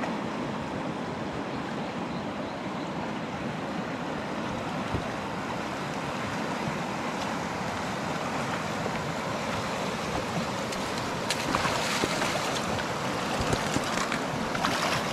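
Steady rushing of a fast-flowing, rain-swollen river, with a few faint clicks near the end.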